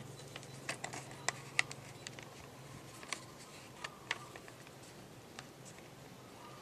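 A sheet of paper being folded and creased by hand: scattered sharp crinkles and taps at irregular moments, more of them in the first half.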